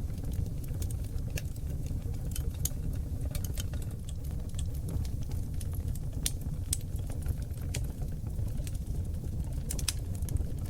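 Wood fire of oak logs burning in a fireplace: a steady low roar of the flames with frequent irregular crackles and pops.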